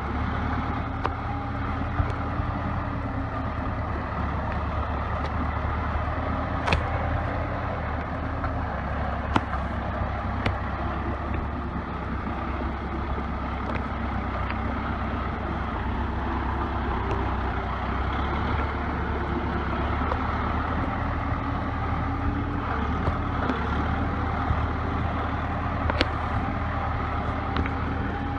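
Four-cylinder diesel engine of an old Case 580B backhoe running steadily as the machine drives slowly downhill, with a few sharp clicks or knocks scattered through.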